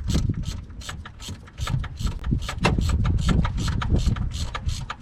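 Ratchet wrench with a 13 mm socket on an extension clicking rapidly and evenly as it works a tight bolt loose, with low knocks and rubbing from the tool being handled.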